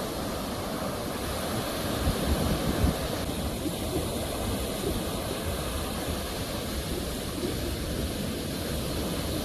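Sea waves washing on the shore, a steady rushing with a louder surge about two seconds in.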